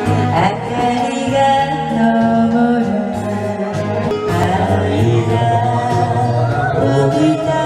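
Karaoke singing: a voice holding long, wavering notes over a backing track with a steady bass line.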